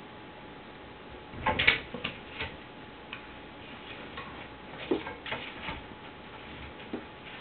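Irregular knocks and clicks of a cupboard door being pawed and pulled open by a cat: a cluster of knocks about a second and a half in, more around five seconds in, and a few single ticks between.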